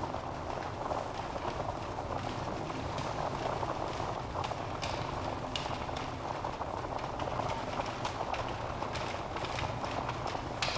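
Wood fire burning in a fireplace: a steady hiss of flames with frequent small, irregular crackles and pops from the logs.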